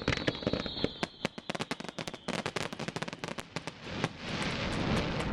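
Fireworks crackling: a dense, rapid run of small sharp pops, with a faint high whistle during the first two seconds. About four seconds in, a steady rushing noise takes over as the crackling thins out.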